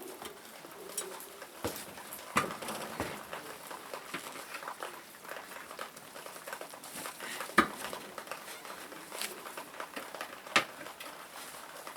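Irregular clicks and knocks of tools and parts being handled during work on a tractor wheel and its inner tube. The sharpest knocks come about a third of the way in, past the middle, and near the end.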